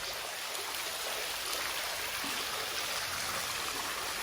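Spring water flowing, a steady even rush of running water.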